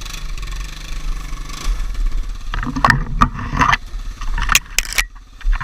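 Four-wheeler engine running under load as it is driven in reverse to pull out of mud, getting louder and rougher for a second or so partway through. Several sharp knocks and clatters near the end.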